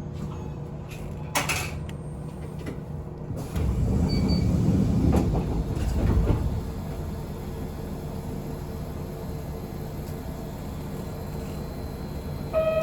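A Yoro Railway local train standing at a station with a steady electrical hum. There is a sharp click about a second and a half in, then a louder rumble for about three seconds that ends in a thud, as the passenger doors slide shut. An announcement chime begins at the very end.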